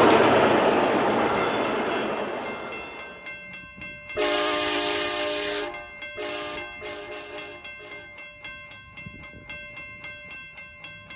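CSX train on a bridge moving away, its rushing noise fading, then its horn sounding one long blast followed by two shorter ones about four seconds in. Regular wheel clicking over the rails keeps on to the end.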